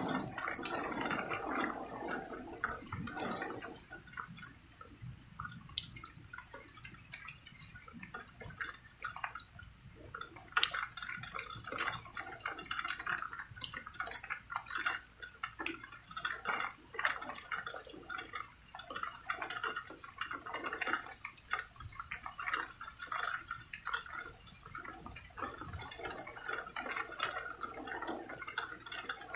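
Rain dripping and pattering in irregular drops. A low rumble dies away over the first few seconds.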